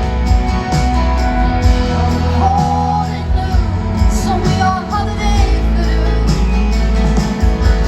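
Live pop band music with a woman singing over a steady bass.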